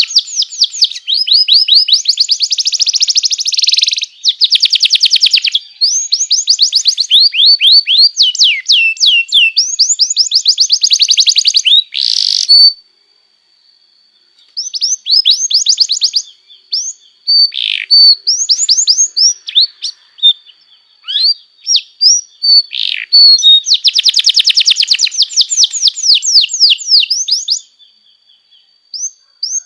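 Domestic canary singing: long runs of fast trills and rolling repeated notes, high-pitched, with two short breaks, about thirteen seconds in and near the end. A thin, steady high whistle runs under the song through the middle part.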